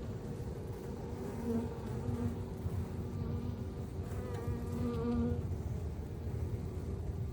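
Honeybees buzzing in a steady hum, with single bees flying close by and swelling louder several times.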